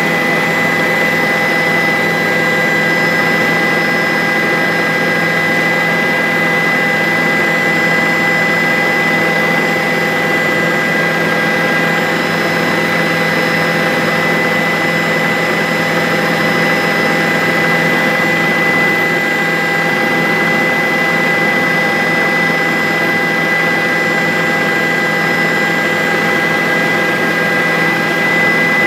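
Bell 407 helicopter in flight: its turboshaft engine and rotor run steadily, a constant high whine over a dense engine-and-rotor roar, with no change in level.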